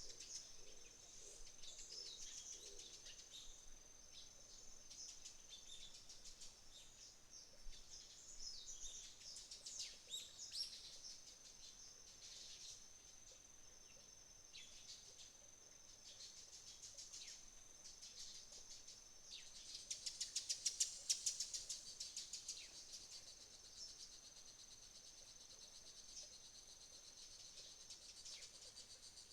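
Faint autumn dawn chorus: a steady high insect trill runs under small birds chirping now and then. About two-thirds of the way in, a rapid run of chirps rises briefly to the loudest point.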